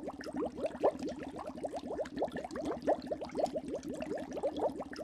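Water bubbling, heard as an underwater effect: a steady stream of small bubbles, each a short rising blip, several a second.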